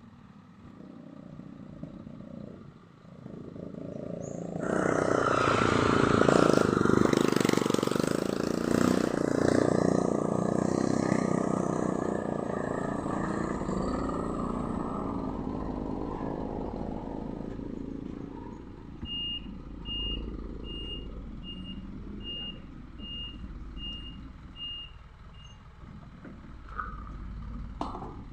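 Heavy truck engine revs loudly and then eases off as the truck pulls away. Later a reversing alarm gives about nine short beeps.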